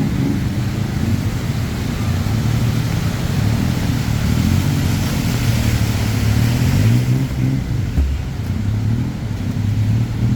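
Motor vehicle engines running close by, their low hum shifting in pitch, under a hiss that swells and then drops away about seven seconds in.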